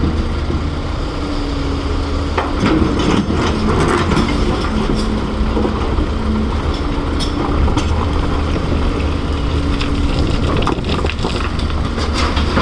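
Heavy excavator's diesel engine running steadily under load, with scattered knocks and clatter of rock and dirt being dug and dumped. Short steady tones rise out of the engine noise now and then as the machine works.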